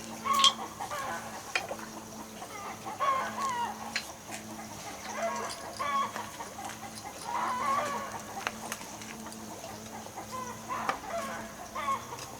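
Chickens clucking in short calls every second or two, with a few sharp knocks among them.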